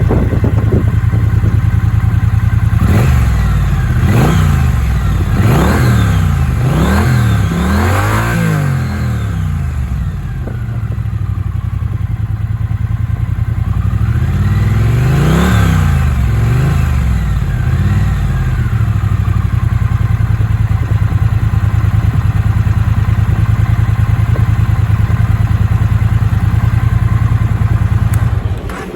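Triumph Speed Twin 900's 900 cc parallel-twin engine idling, then blipped with about five quick throttle revs in a row. Later there is one slower, longer rev that rises and falls, after which it settles back to a steady idle.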